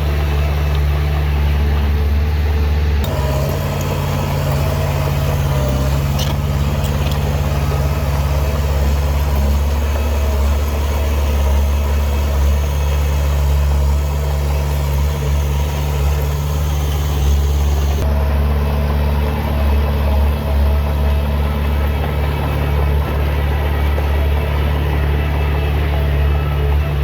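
Heavy earthmoving machine's diesel engine running steadily with a deep low drone. The sound shifts abruptly about three seconds in and again about eighteen seconds in, with a short sharp tick near six seconds.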